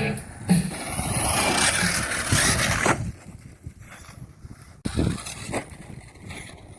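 Arrma Kraton 6S RC monster truck driving on loose ground: motor and tyres loud for about three seconds, then fading off, with a couple of short bursts of throttle near the end.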